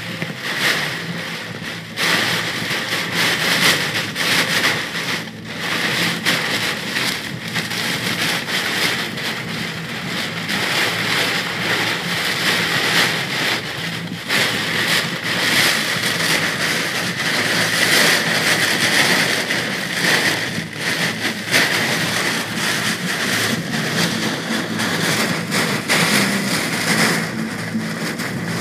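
Heavy rain drumming on a car driving through a storm, over the steady drone of the engine and tyres.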